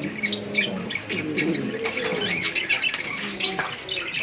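Pigeons cooing in low, drawn-out notes, with small cage birds chirping over them in many short high notes and a few sharp clicks.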